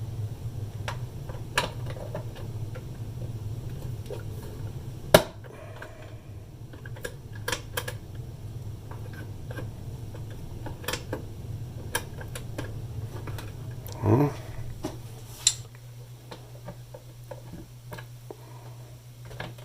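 Scattered small clicks and taps of a radio control knob and its bushing being handled and pushed onto the control shaft, the sharpest about five seconds in, over a low steady hum that drops a little near the end.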